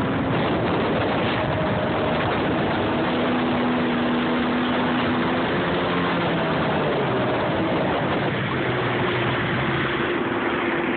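Jet ski engine running over steady water and wind noise, its pitch shifting up and down with the throttle.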